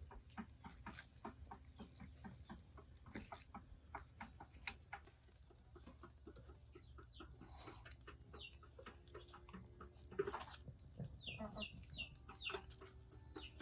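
Chickens clucking faintly, with short high chirps and scattered light clicks and taps.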